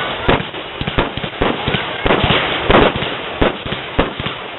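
Fireworks going off in quick, irregular succession: a dense crackle of many sharp bangs and pops.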